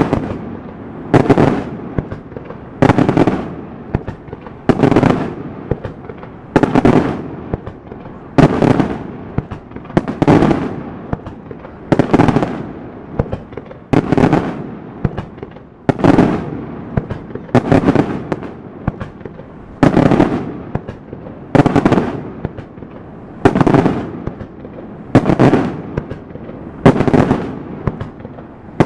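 Daytime aerial fireworks shells bursting in a steady sequence, about one bang every two seconds, each bang trailing off over about a second.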